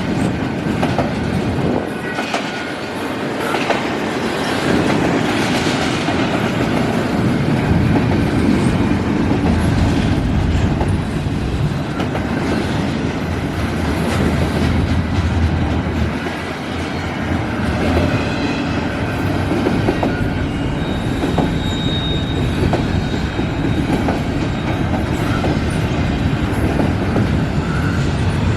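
Canadian National intermodal freight train's cars rolling past steadily, their wheels clacking over the rail joints, with a brief high wheel squeal about three quarters of the way through.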